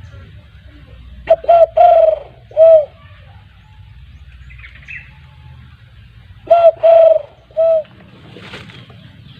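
Spotted dove (tekukur) cooing call played loudly through a hunting caller to lure doves: a phrase of four coo notes about a second in, then three more notes near the end, over a faint low rumble.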